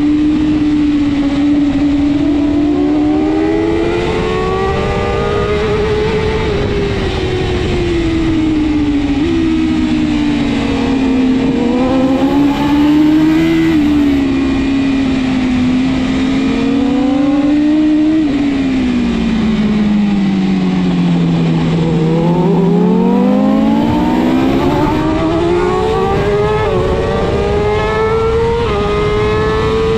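BMW S1000RR inline-four superbike engine at racing speed. Its pitch climbs under throttle and steps back on quick upshifts, then falls in a long slide while braking for a slow corner about two-thirds through, and climbs again under hard acceleration.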